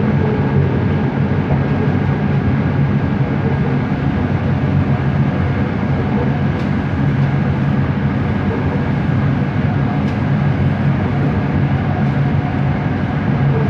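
Bombardier Innovia ART 200 metro train heard from inside, running steadily: a continuous low rumble with a thin steady whine from its linear induction motor drive.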